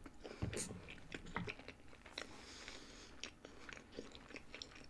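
A person chewing a mouthful of chicken strip close to the microphone, with soft, irregular wet clicks and crunches from the mouth.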